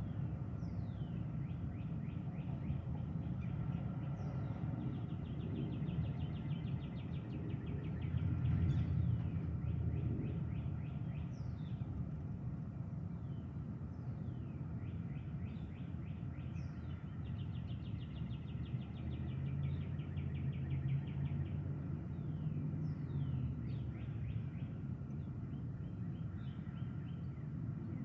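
Birds calling, with repeated quick down-slurred notes and rapid trills, over a steady low rumble that swells about eight seconds in and again around twenty seconds in.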